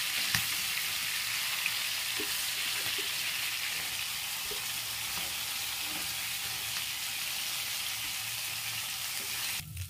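Chicken tikka pieces sizzling in hot oil in a frying pan on high flame: a steady frying hiss that cuts off abruptly near the end.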